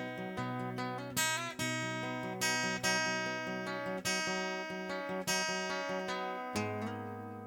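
Acoustic guitar strumming chords in an instrumental passage of a song. About six and a half seconds in, a final chord is struck and left to ring out, fading away.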